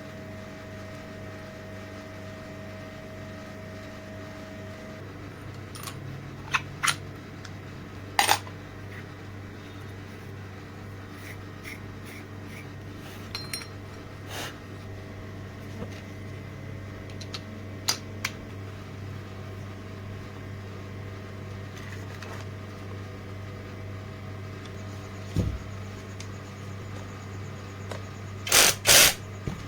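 A steady low electric hum throughout, with sharp clicks and knocks of tools or metal parts being handled. The knocks are scattered, and a quick cluster of them comes near the end.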